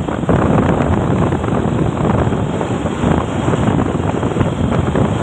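A truck running, heard under heavy wind buffeting on the microphone: a loud, steady, rough rush with no clear engine pitch.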